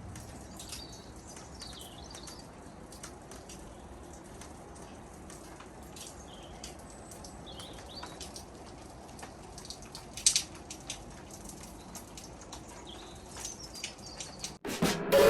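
Steady light rain with scattered drips and patters, and birds chirping now and then in short calls. A sharp tap about ten seconds in, and electronic music starts in the last second.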